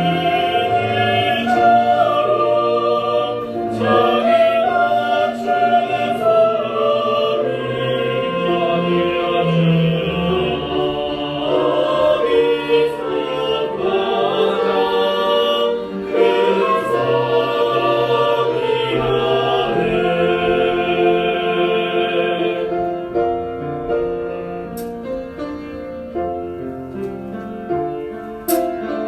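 Choir singing a worship song with orchestral accompaniment. The fullest part of the sound drops away a little past two-thirds of the way through, leaving softer instruments playing.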